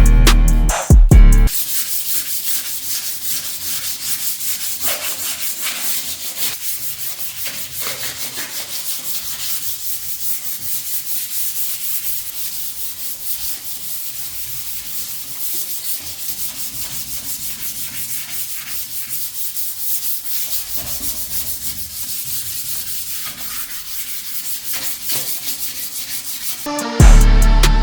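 Abrasive rubbing like hand sanding: a steady hiss of quick, repeated rasping strokes. A loud music track cuts out about a second and a half in and comes back just before the end.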